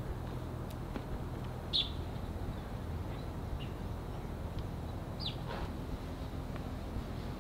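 Small bird calling in short high chirps, one about two seconds in and a downward-sliding one about five seconds in, over steady low background noise.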